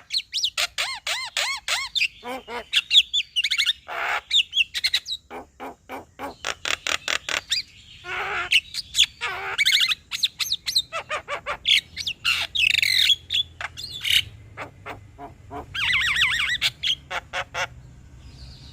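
Male Javan myna singing: a busy jumble of rapid sharp clicks, warbling whistled notes that bend up and down, and harsh squawks. The song stops shortly before the end.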